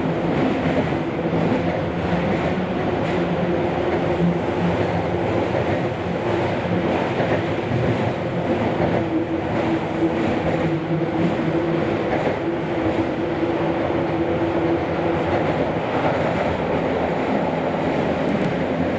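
Running noise inside a Kobe City Subway 5000-series linear-motor train cruising through a tunnel between stations: a steady rumble with a constant hum from the drive.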